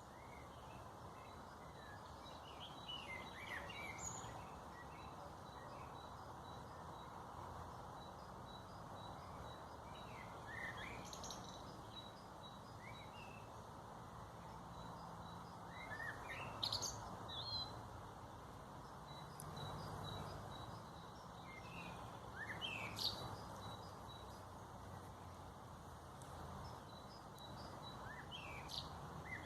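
Wild birds chirping in short rising and falling calls every few seconds over a steady background hiss. A faint high note repeats a few times a second through much of it.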